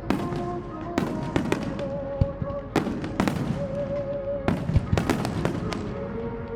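Aerial fireworks shells bursting in quick succession, about a dozen sharp bangs each trailing off into a reverberant rumble, during a dense barrage of a large display.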